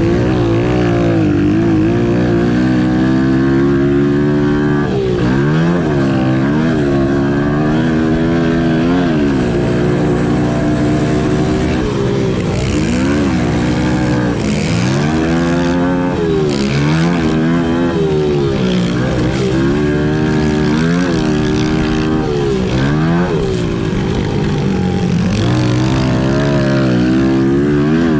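Pit bike engine being ridden hard, its pitch climbing and dropping over and over as the throttle is opened and shut.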